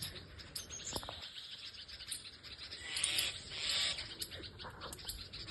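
Small birds giving many short, sharp chirps: alarm calls at a snake raiding their nest. A soft rushing hiss swells about three seconds in.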